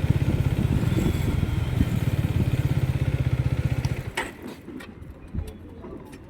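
Motorcycle engine idling with a steady, fast-pulsing beat, then shut off about four seconds in, leaving a few light clicks.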